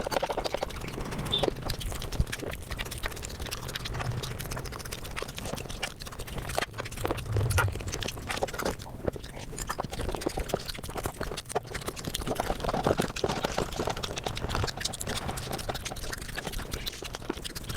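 Eating sounds sped up several times: a fast, continuous run of wet chewing and lip-smacking clicks from someone eating rice and curry.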